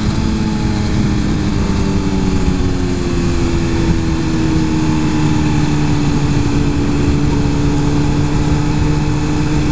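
Suzuki GSX-R 1000 inline-four engine running under the rider, its revs sinking slowly and steadily over several seconds, over a constant rush of wind noise.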